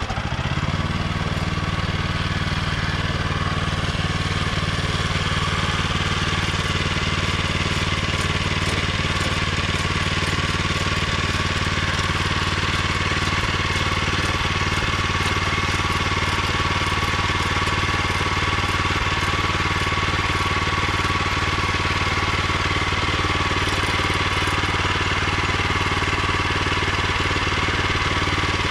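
The small gas engine on a Woodland Mills HM126 portable sawmill catches, rises to speed within the first second, and then runs steadily.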